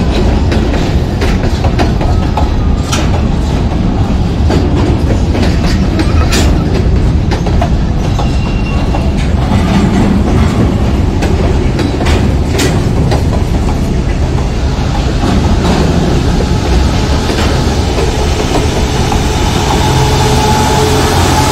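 Train passing close by: a loud, steady rumble of rail cars rolling on the tracks, with sharp clanks scattered through it. A steadier engine hum comes up near the end.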